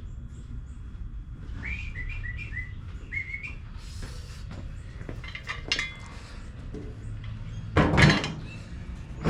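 A quick run of about five short high chirping notes, then a loud clunk about eight seconds in, over a low steady hum.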